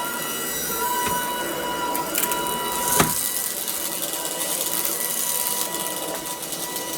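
Shark DuoClean cordless stick vacuum running with a steady high motor whine, with crackling and crunching as debris is sucked up. A sharp click about three seconds in, with lighter ticks before it.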